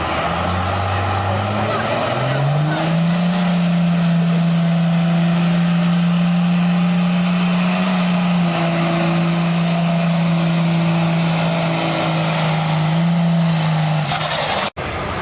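Stock pickup truck pulling a sled at full throttle: the engine revs up over about three seconds and holds steady at high revs, with a high whistle that climbs with it and holds. Near the end the whistle falls away and the sound cuts off abruptly.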